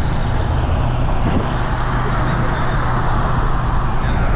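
Supercharged V8 of a second-generation Cadillac CTS-V cruising at a steady speed: a constant low engine drone under road and wind noise.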